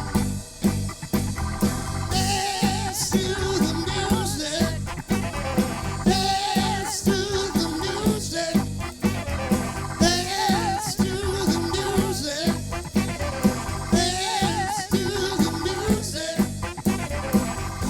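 Live soul-funk band playing a groove: a steady drum beat and bass under a melodic phrase that repeats about every four seconds.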